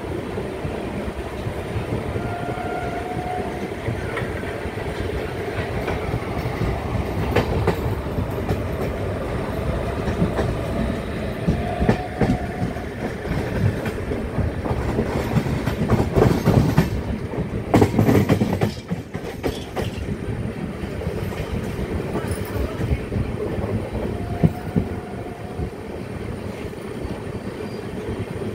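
Indian Railways express coach running through a station yard, heard from an open door: a steady rumble with wheels clattering over rail joints and points. The clatter grows heavier about two-thirds of the way through, and a few short faint wheel squeals come and go.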